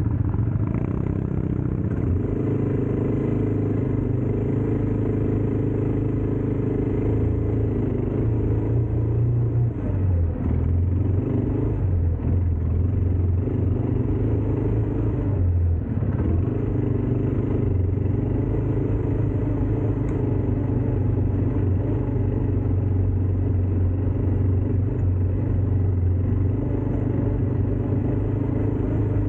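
ATV engine running steadily, its pitch shifting up and down a little, with a couple of brief dips in loudness.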